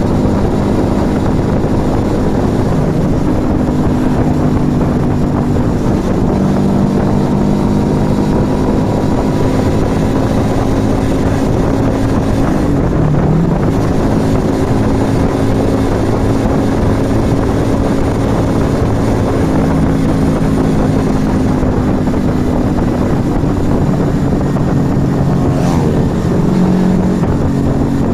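Yamaha XV125 Virago's small V-twin running at steady road speed through an aftermarket Turbo Kit exhaust. The engine note briefly dips and climbs back about halfway through.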